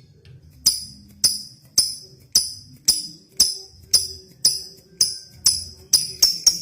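Lovebird giving a run of sharp, high-pitched chirps at about two a second, quickening to about four a second near the end.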